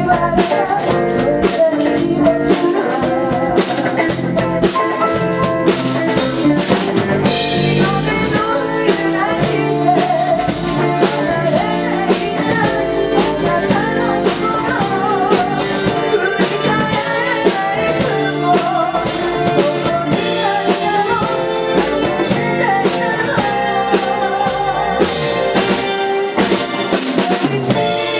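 Live band playing a city-pop song: drum kit keeping a steady beat under bass, chords and a wavering melodic lead line.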